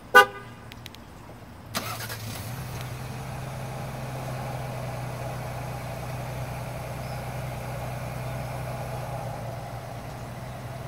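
2020 Ford Explorer: a short horn chirp right at the start, then about two seconds in the engine cranks and catches and settles into a steady idle.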